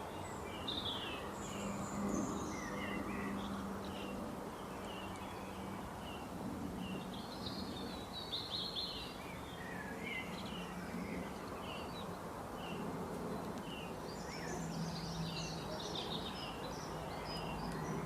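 Several birds chirping in short, scattered calls over a steady background hiss.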